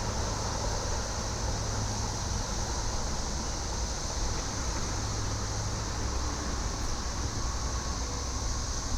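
A chorus of cicadas droning as one steady high-pitched hiss, with a low steady rumble underneath.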